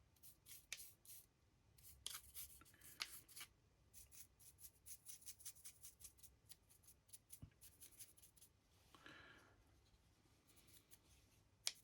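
Faint, quick scratchy strokes of a paintbrush's bristles against a 3D-printed model as neutral grey paint is brushed on, coming in short runs that are densest in the middle.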